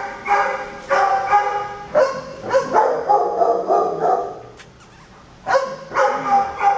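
Shelter dogs barking in their kennels in repeated bouts, with a short lull about two-thirds of the way through before the barking starts again.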